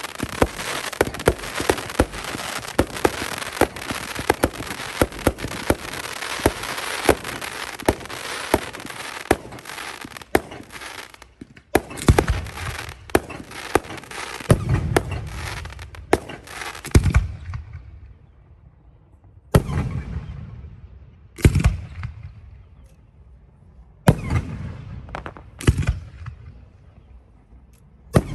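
Fireworks display: for the first seventeen seconds or so a dense barrage of crackling and rapid bangs, then separate shell bursts about every two seconds, each bang trailing off before the next.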